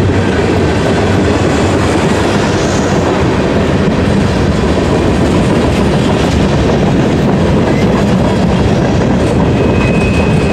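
Freight cars of a long mixed freight train (tank cars, boxcars, hoppers) rolling past close by: a steady, loud rumble of steel wheels on rail with clicking over the rail joints.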